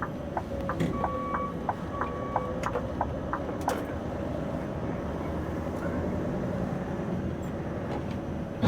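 Scania V8 truck engine running steadily, heard from inside the cab while hauling a heavy low-loader load. Scattered light clicks and rattles come in the first few seconds, and a sharp knock at the very end.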